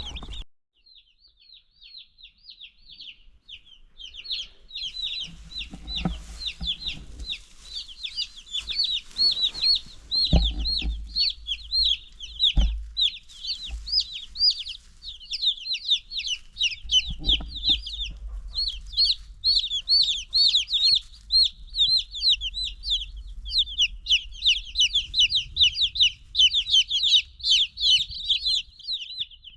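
A brood of young meat chicks peeping continuously, many short high down-slurred peeps overlapping, with a few low thumps in between.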